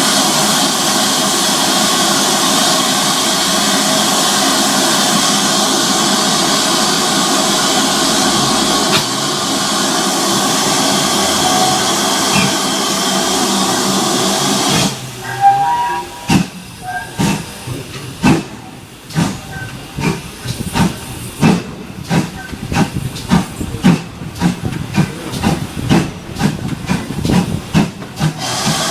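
Steam locomotive, GWR Manor-class 7827 Lydham Manor, letting off a loud, steady hiss of steam that cuts off suddenly about halfway through. It then starts to work, with sharp exhaust beats that settle into a slow, even rhythm of about one a second.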